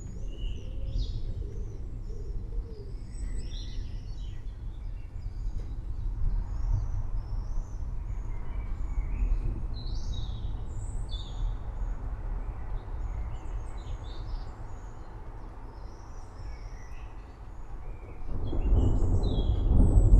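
Forest ambience: many short bird chirps and calls scattered over a steady low rumble, with a louder roll of distant thunder building near the end.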